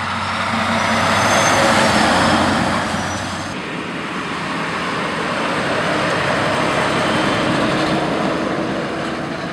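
A heavy motor vehicle running close by: a low, steady engine hum under a loud, broad rushing noise that swells about two seconds in. The engine hum drops out about three and a half seconds in while the rushing noise carries on.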